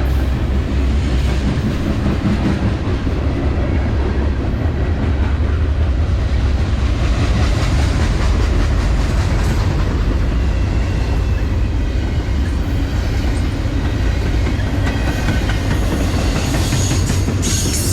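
Train passing close by, a steady loud rumble with the clickety-clack of wheels over the rails and a faint wheel squeal near the end.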